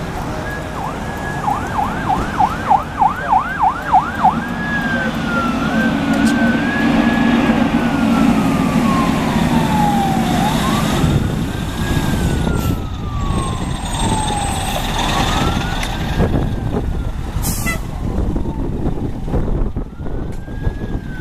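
Fire engine siren on a code 3 response: a fast yelp of rapid up-and-down sweeps for a few seconds, then a slow wail rising and falling. Under it runs the low rumble of the fire truck's engine, strongest a few seconds in.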